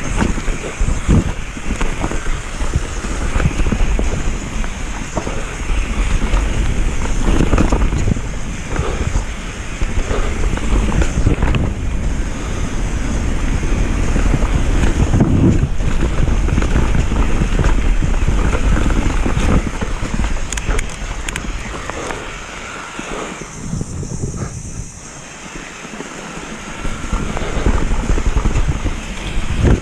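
Wind buffeting the camera microphone over the rattle and knocks of a downhill mountain bike running over rough trail. It eases off for a few seconds about three quarters through, then builds again.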